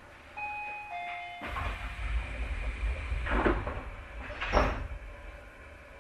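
Tobu 30000 series train at a station stop: a short two-note door chime, then the sliding passenger doors running along their tracks with a rush of air and two thuds as they meet their stops.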